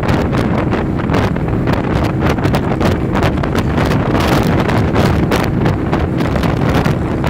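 Heavy wind buffeting on the microphone of a moving vehicle, with gusts over a steady low rumble of engine and road noise.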